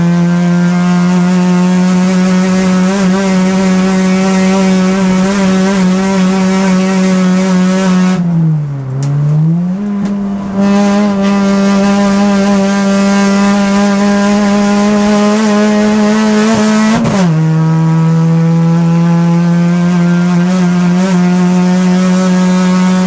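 Race car engine heard from inside the caged cockpit, running hard at a steady high pitch. About a third of the way in the pitch sags and then climbs back, and it dips briefly again about two thirds through.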